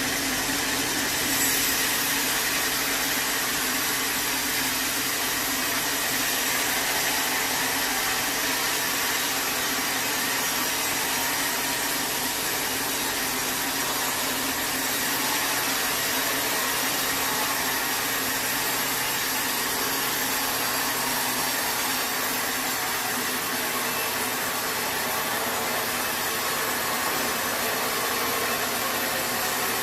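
Sawmill saw running steadily through a log, a continuous noisy whir with a faint steady hum underneath.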